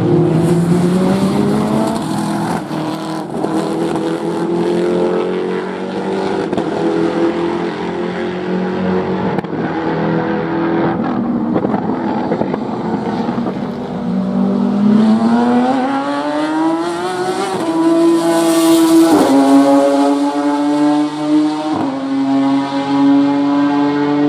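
Race car engines running hard on a circuit: one car accelerating at the start, then another winding up through the revs in the second half, with two sharp upshifts near the end.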